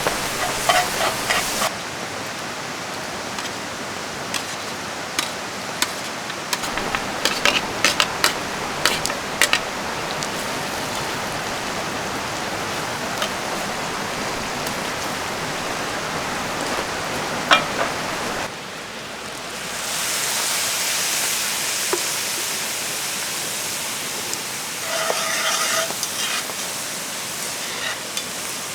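Steady rush of rain and river water, which changes abruptly about two seconds in and again near eighteen seconds, and is brighter and hissier from about twenty seconds. Scattered light clicks and taps of camp cooking work sit on top, clustered around five to ten seconds and again near the end.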